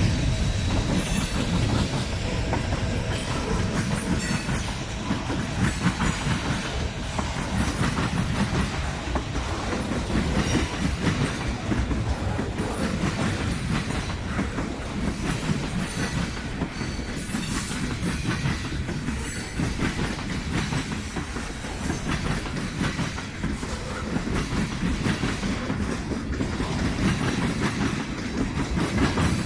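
Railroad cars rolling past steadily, wheels clicking over rail joints in a continuous clickety-clack.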